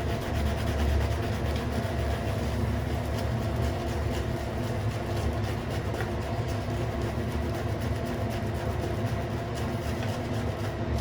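Badger shaving brush being swirled on shaving soap, a continuous rapid wet crackle of many fine ticks, over a steady low hum and rumble in the room.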